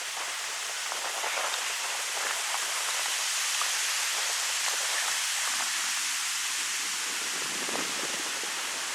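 Mountain wind blowing through birch trees: a steady rustling hiss of leaves and branches that swells slightly in the middle and eases off again.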